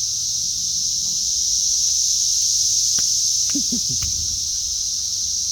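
Cicadas droning in chorus, a steady high buzz. Two sharp clicks come about three and four seconds in.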